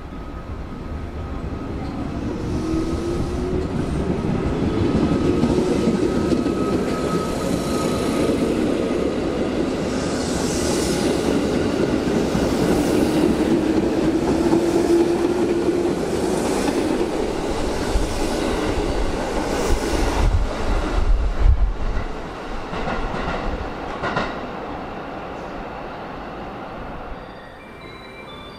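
JR West 221 series electric train pulling out of a station and accelerating past, its motor hum rising in pitch twice as it gathers speed. Then comes a run of wheel clacks over the rail joints and a low rumble as the cars go by, and the sound falls away near the end as the last car leaves.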